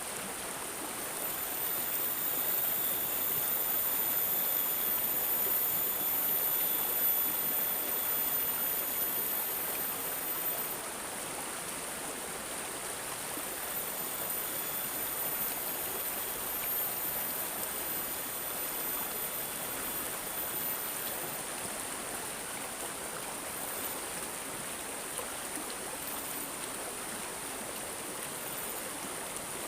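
Water in a stream gurgling and running steadily, a little louder in the first ten seconds.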